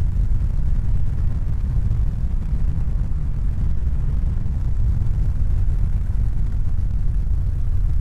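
Steady low rumble: a dense, even noise, heaviest in the bass, with no distinct events.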